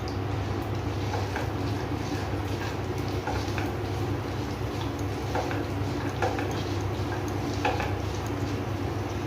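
Kitchen utensils clinking and tapping against cookware now and then, over a steady low hum.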